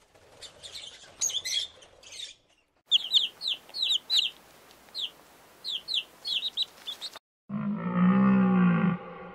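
A few scattered high bird calls, then a domestic chicken chick peeping: quick falling peeps in little clusters. Near the end a cow lows once, a long call.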